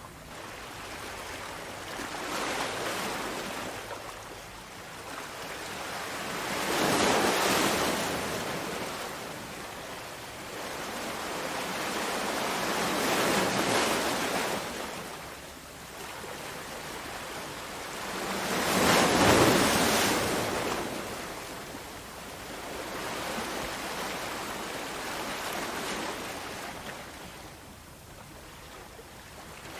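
Sea waves breaking and washing on a shore. The surges come every five to six seconds, the loudest about seven seconds in and again near twenty seconds.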